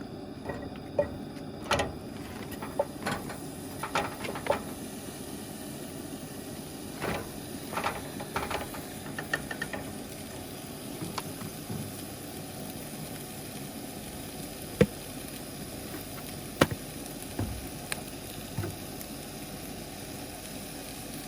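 Steady hiss of a cooking fire heating a grill, with scattered sharp clicks and knocks of cookware being handled. The two loudest knocks come about 15 and 17 seconds in.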